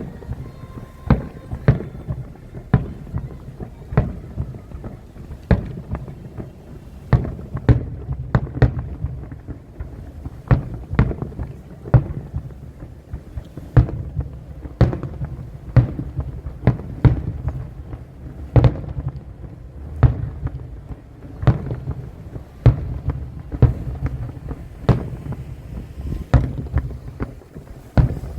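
Aerial fireworks bursting in a steady series, a sharp bang about every second with a low rumble of echoes between them.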